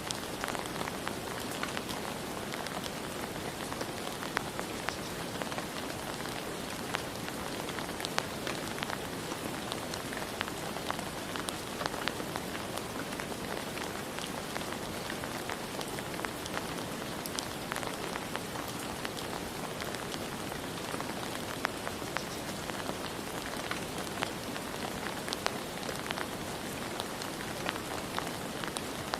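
Steady rain falling, a constant hiss with many individual drops pattering and ticking on a hard surface.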